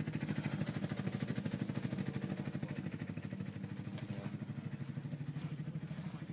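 Rat rod hot rod's engine idling, a steady rapid, even exhaust beat that fades slightly toward the end.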